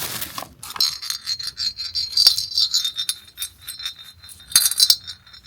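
Krampus bell shaken, jingling in quick repeated strikes with a high, sustained ring. It eases off around four seconds in, then gives a last louder shake near the end.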